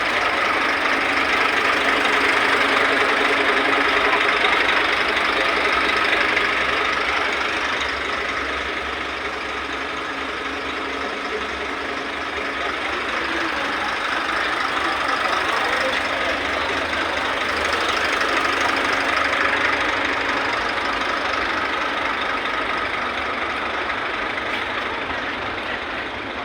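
Diesel engine of a Scania Super truck running steadily at idle.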